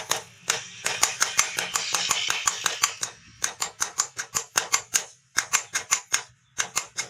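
Rapid, evenly paced hammer blows on metal at an anvil, about five or six strikes a second, with two short pauses near the end.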